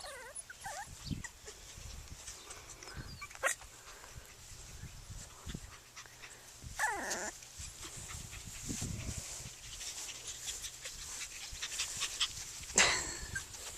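Yorkiepoo puppies making a few short, high whining cries that fall in pitch, with small scuffles and clicks in between. A sharp knock comes near the end.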